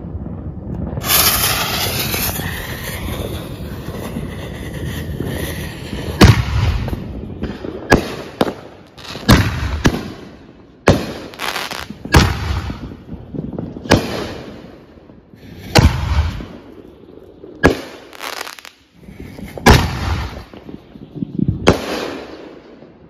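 Consumer firework fuse hissing for about five seconds after being lit, then a rapid string of sharp firework bangs, roughly one a second, as shells launch and burst overhead.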